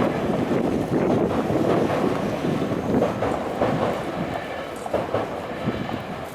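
Tokyu Toyoko Line train running over a level crossing: a steady rumble of wheels on rail with scattered clicks, fading away over the last couple of seconds.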